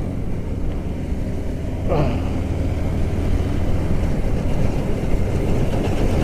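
Yamaha R15M's single-cylinder engine running steadily under way, getting a little louder after about two seconds. A brief falling tone sweeps down about two seconds in.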